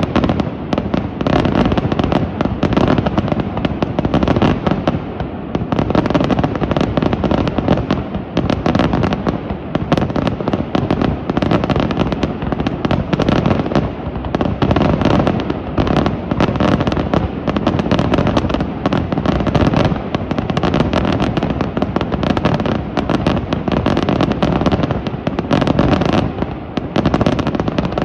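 Daytime fireworks display: a dense, unbroken barrage of aerial shell bursts and firecracker bangs, starting abruptly and going on without pause.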